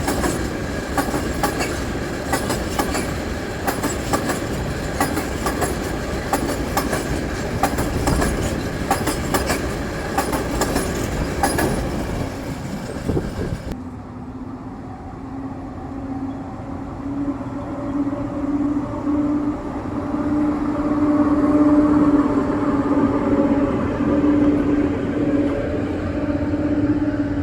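A train passing close at speed, its wheels clattering rapidly over the rail joints. About halfway through the sound cuts abruptly to the steady hum of a locomotive's diesel engine, which grows louder as it draws nearer.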